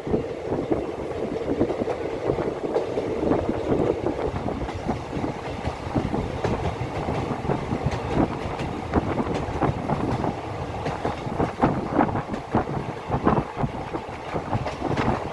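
A vehicle running, with a steady low rumble and a dense, uneven clatter of knocks and rattles.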